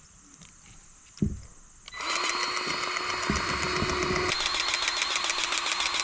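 Powered grease gun running for about four seconds, its motor pumping grease into a fitting, with a fast, even rhythm whose tone shifts partway through. A single knock comes about a second before it starts.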